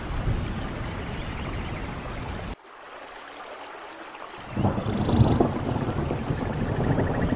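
Steady rain with rumbling thunder. About two and a half seconds in, the low rumble cuts out abruptly and comes back about two seconds later. A faint, rapid high trill is heard near the end.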